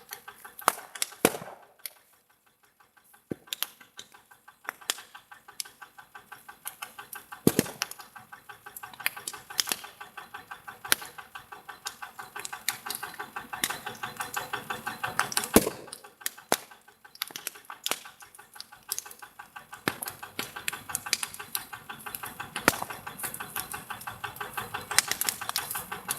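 Burning vegetation crackling and popping: many sharp, irregular snaps and cracks, thickening in the second half, over a faint steady hiss.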